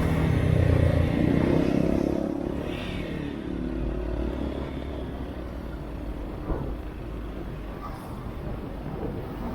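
Motorcycle engine running under way with wind and road rush. After about two seconds the engine note fades, leaving mostly a steady wind and road noise.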